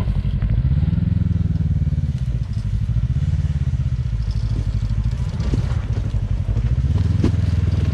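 Kawasaki KRX side-by-side engine running under throttle while rock-crawling, swelling about a second in, again around three seconds, and near the end, with a few sharp knocks from rocks.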